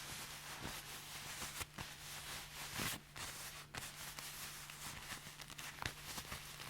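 Leather being handled and flexed, creaking and rustling with short sharp crackles; the strongest creaks come about three seconds in and again near six seconds. A faint steady low hum runs underneath.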